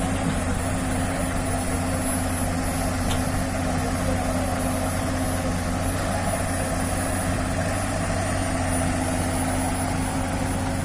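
Heavy diesel engine running steadily at an even, low speed, with no revving and no knocks.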